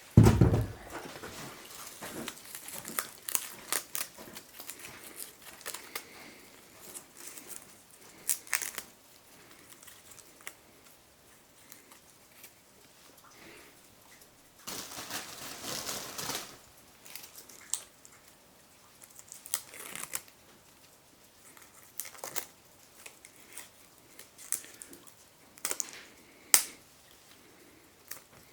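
Wood fire crackling with irregular sharp pops, a dull thump at the very start and a longer rustle a little past halfway.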